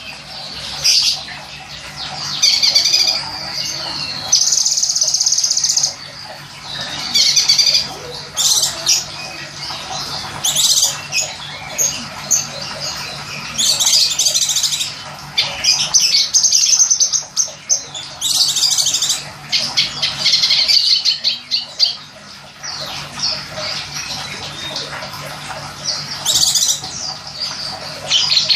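Small songbird (the 'kinoy' of Indonesian bird keepers) singing high, rapid trills and chattering phrases again and again, with a steady background of running water. This is a masteran track: birdsong played to caged songbirds for them to learn.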